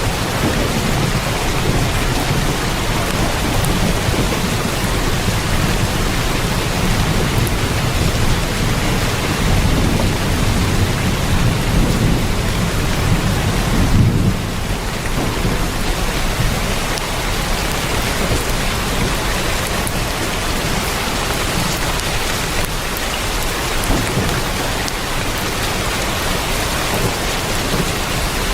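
Heavy rain drumming steadily on a tin roof. A low rumble underlies the first half, swells, and drops away suddenly about halfway through.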